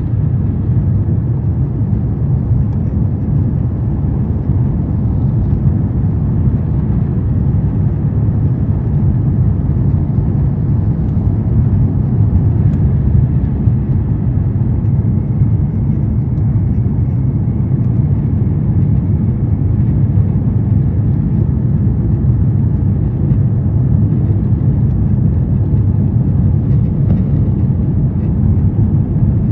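Steady low rumble of an Airbus A350-1000 airliner's engines and airflow, heard from inside the passenger cabin.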